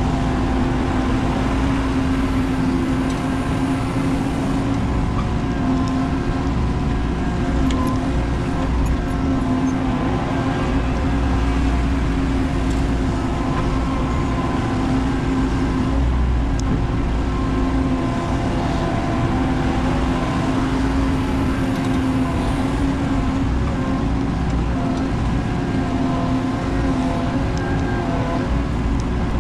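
Menzi Muck spider excavator running steadily, with its engine and hydraulics working and the pitch of the higher tones wavering up and down as the machine moves.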